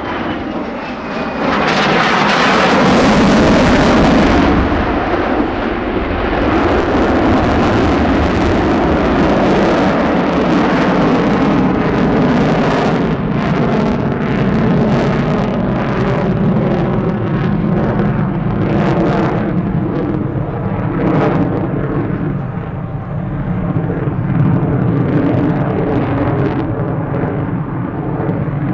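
Jet noise from a Lockheed Martin F-35A Lightning II's single Pratt & Whitney F135 engine as the fighter flies its display. The noise is loud and sustained, swells about a second and a half in, and crackles throughout.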